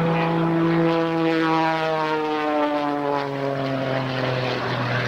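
Piston-engine propeller aircraft flying past, its engine and propeller tone sliding down in pitch as it goes by.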